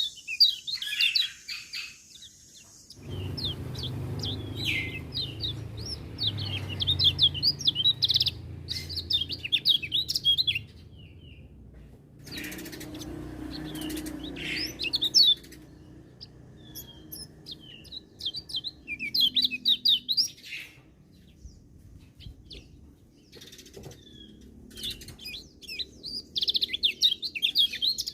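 Kecial kuning, a small white-eye, singing: rapid bursts of high, twittering chirps lasting a few seconds each, with short pauses between, over a low background hum.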